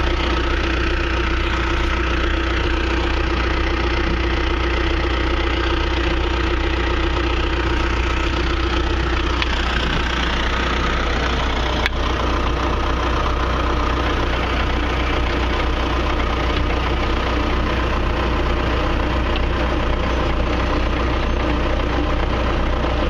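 John Deere 650J crawler dozer's diesel engine idling steadily, with one sharp click about twelve seconds in.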